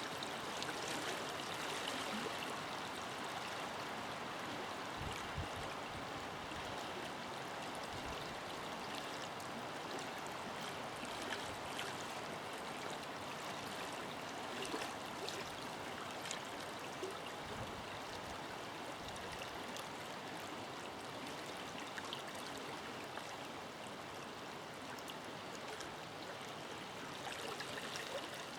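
Forest river flowing steadily over rocks, a continuous rushing and babbling with small splashes and trickles scattered through it.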